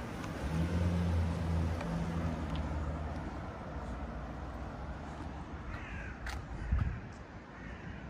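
A bird calling twice in the second half, over steady outdoor background noise, with a low engine hum in the first few seconds that fades away.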